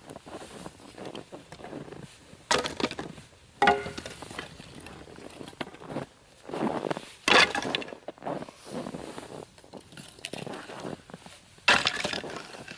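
Firewood being broken up: four sharp cracks and knocks a few seconds apart, one with a short ringing, with quieter crunching between them.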